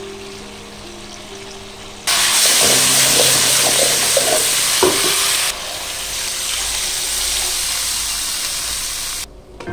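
Pork belly and potatoes sizzling loudly in a hot wok as they are stir-fried, then a steadier, quieter hiss as water goes into the hot pan, cutting off suddenly near the end.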